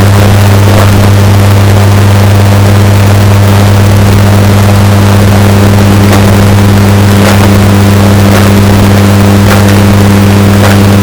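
Washing machine running with a loud, steady low hum, heavily bass-boosted and distorted to the point of clipping. Faint clicks come about once a second in the second half.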